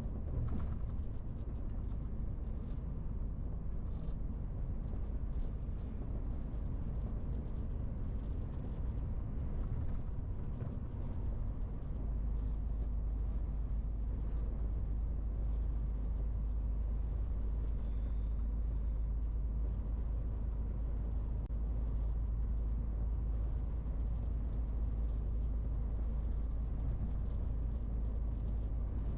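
MAN TGX 18.470 truck driving, its 12.4-litre straight-six diesel running steadily under road and tyre noise as a continuous low rumble. The rumble grows heavier about twelve seconds in.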